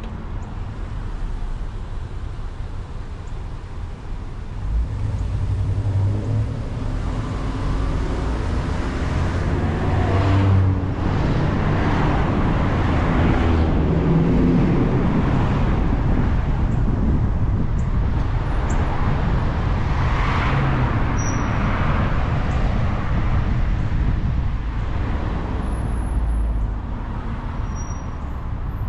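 A car engine running with road noise. It grows louder about five seconds in, holds through the middle with several swells, and eases off near the end.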